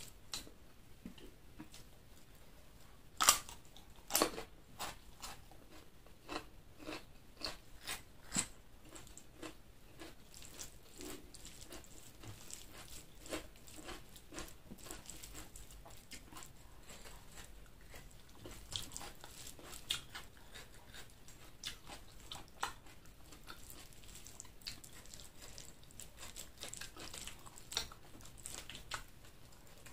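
Close-miked chewing and biting of a meal of chicken liver and gizzard with rice: a run of crisp, wet crunches and smacks, two loud bites about 3 and 4 seconds in and steady smaller crunches after.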